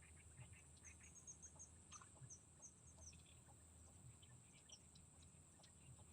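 Faint bird calls: a quick run of short high chirps between about one and three seconds in, with scattered fainter chirps later, over a steady high hiss.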